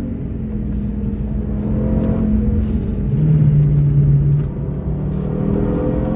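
Audi TT RS's turbocharged five-cylinder engine heard from inside the cabin, pulling in third gear with road rumble underneath. The revs fall as the car slows into a corner, then rise again from about five seconds in as the throttle opens.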